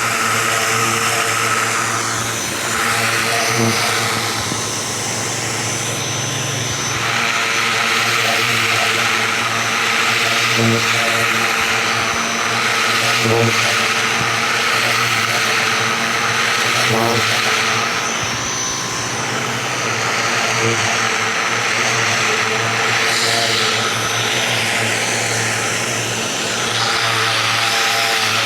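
Ryobi 2000 PSI electric pressure washer running steadily, its motor and pump humming under the hiss of the water jet, which grows louder and softer by turns.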